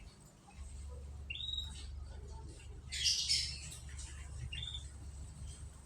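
Canaries calling: two short high chirps and a harsher squawk about three seconds in, over a steady low hum.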